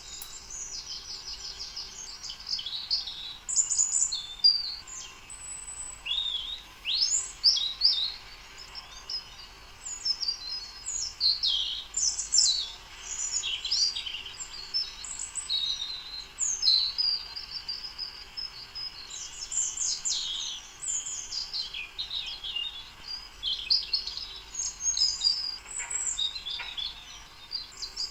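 Several birds chirping and singing, with many quick, overlapping high calls and sweeps that come and go throughout.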